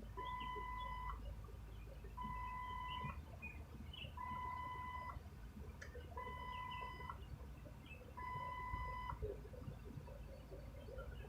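Electronic beeper sounding five steady one-second beeps, one every two seconds, over a low background rumble.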